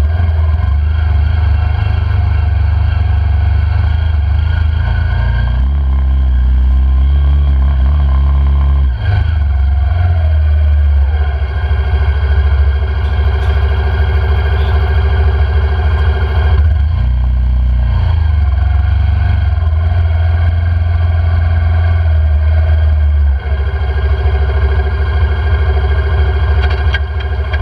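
Quad bike engine running under way, its note shifting up and down several times as the throttle changes.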